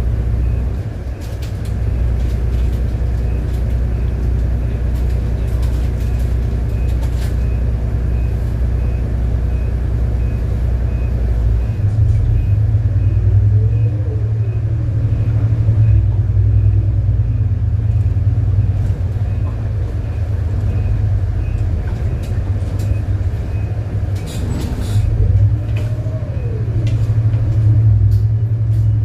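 City bus engine running as the bus drives along. Its low hum steps up about halfway through, a whine rises and falls twice, and there are scattered light rattles.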